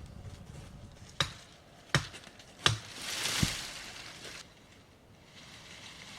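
Three sharp chopping strikes of a blade, about three quarters of a second apart. They are followed by a brief rustling swish with a dull thud in it.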